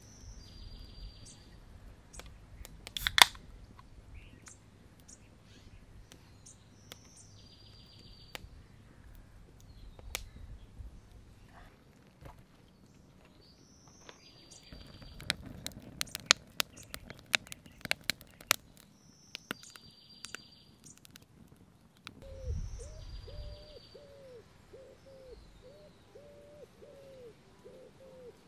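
Birds singing in woodland: a short high song repeated every few seconds, with a run of about eight low cooing notes near the end. A sharp snap about three seconds in, and crackling pops from a wood fire in the middle.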